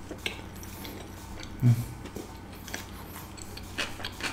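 Close-miked mouth sounds of someone chewing a soft butter chicken momo with lips closed: a run of small wet clicks and smacks, thicker near the end. A brief low hum from the eater comes a little before the middle.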